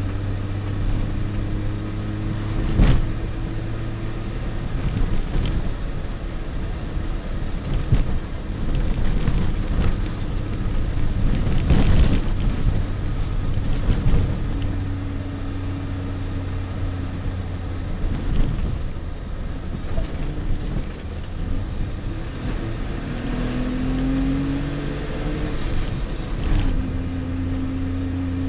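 DKW Vemag Belcar's three-cylinder two-stroke engine heard from inside the cabin while driving, its pitch climbing as it pulls in gear, twice, each climb ending abruptly. Several sharp thumps, the loudest about three and twelve seconds in.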